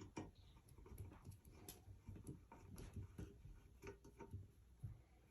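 Near silence broken by faint, irregular small clicks and taps of hardware being handled during ceiling fan assembly.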